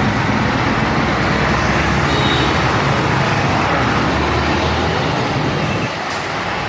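Vehicle engines running with a steady drone and road noise; the sound drops a little about six seconds in.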